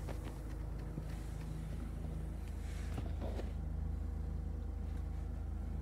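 Steady low hum of a car's idling engine and air-conditioning blower, heard from inside the cabin.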